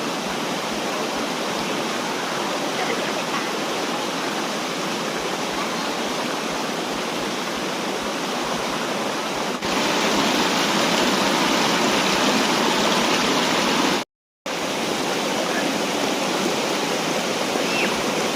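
Waterfall rushing steadily, a constant noise of falling water. It gets louder about ten seconds in, then cuts out for a split second a few seconds later and comes back.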